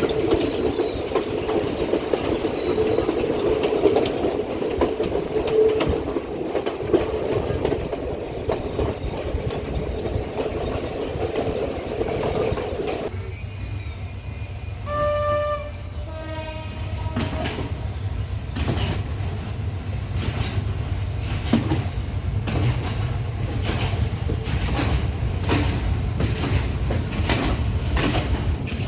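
Passenger train running on the rails: a steady rumble with wheel clatter, changing abruptly about halfway. The locomotive's horn then sounds twice briefly, the second blast lower, followed by a regular clickety-clack of wheels over rail joints.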